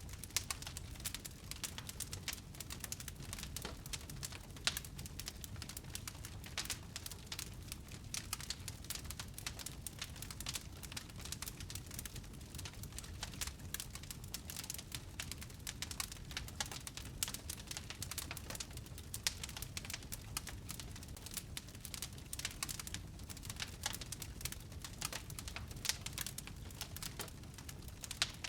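Wood fire burning in a fireplace, crackling steadily with many quick snaps and a few louder pops over a low rumble.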